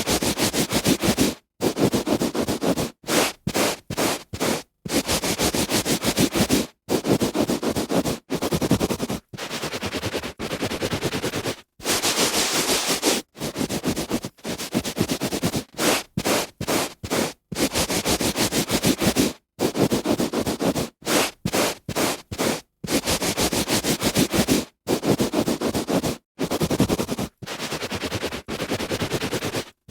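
A hand rubbing back and forth on a carpet: strokes of scratchy, rustling friction, some short and some about two seconds long, with brief silent gaps between them.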